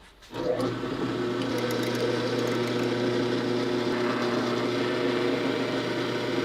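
An electric workshop machine switches on about a third of a second in and runs with a steady hum.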